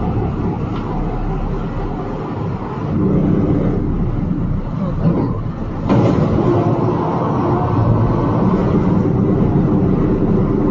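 Truck engine and road noise running steadily, with a sudden jump in level about six seconds in.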